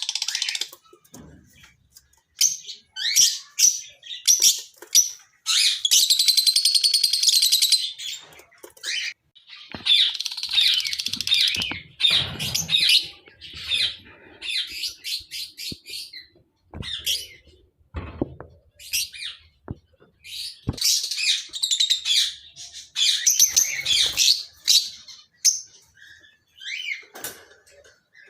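Lovebirds (Agapornis) chattering in shrill, high-pitched calls, in bursts of a second or two with short gaps, with a few soft knocks in between.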